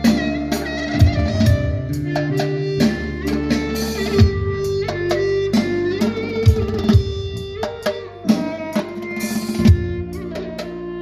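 Korg Kronos synthesizer workstation playing a melody: a sustained lead voice with pitch slides, plus plucked-string and fiddle-like sounds, over a programmed drum beat with heavy low hits.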